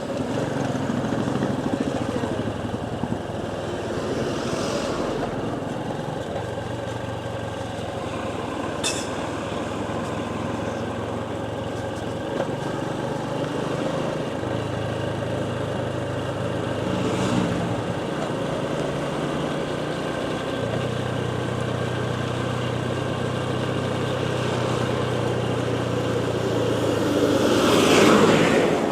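Motorcycle engine running on the move under a steady rushing noise, its low note stepping up and down a few times. A short sharp tick comes about nine seconds in, and a louder whoosh swells and fades near the end.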